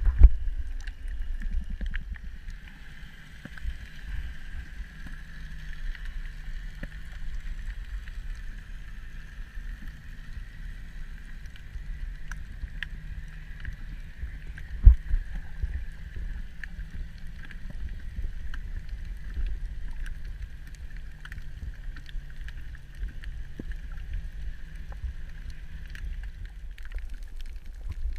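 Muffled underwater water noise: a low, fluctuating rumble of water moving against the camera, with a steady hum and scattered faint clicks. A sharp knock right at the start and another about halfway through.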